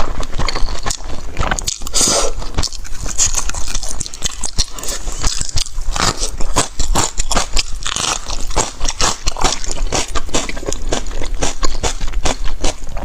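A person biting and chewing food close to the microphone, a rapid run of sharp clicks and smacks that keeps on throughout.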